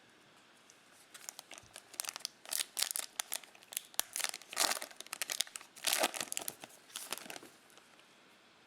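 Plastic trading-card pack wrapper being torn open and crinkled by hand, in a run of irregular crackles over about six seconds.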